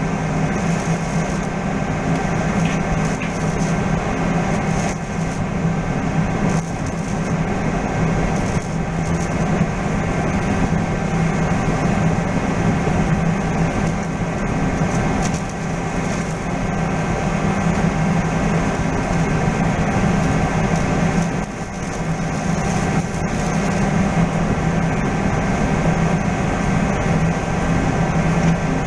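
Steady low machinery hum with continuous fine crackling on top, the crackle typical of arc welding in progress.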